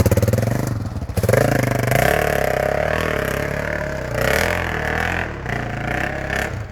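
Dirt bike engine running hard under throttle, its pitch rising and falling several times as it revs.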